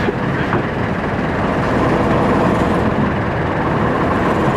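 Small river boat's engine running steadily under way, heard from aboard, with a fast even pulsing low down.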